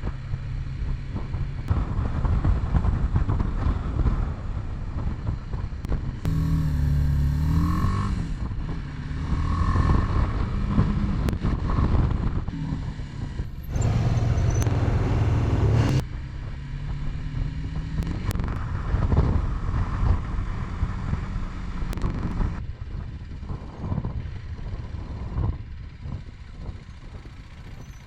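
Motorcycle engine running on the road, its pitch rising and falling several times as it speeds up and slows.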